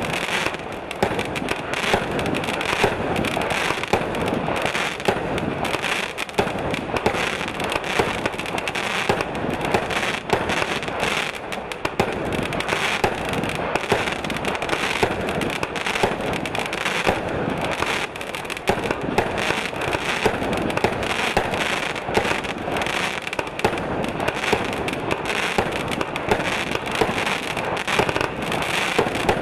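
Hocus Pocus 36-shot consumer fireworks cake firing shot after shot: launch pops and bursting peonies under a dense, continuous crackle of very loud crackling stars.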